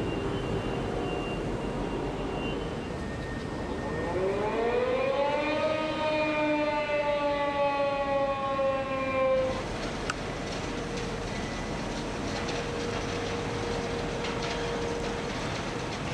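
Steelworks plant noise. About four seconds in, a pitched whine with many overtones rises over two seconds, then sinks slowly and cuts off abruptly after about nine and a half seconds. Steady machinery noise with a faint constant hum runs underneath.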